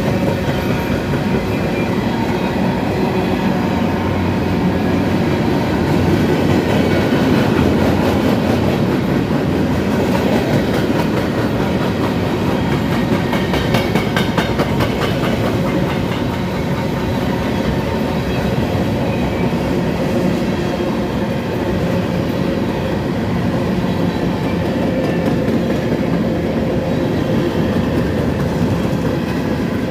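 A long train rolling steadily past at close range, its wheels clattering over the rails, with a run of sharper clicks about halfway through.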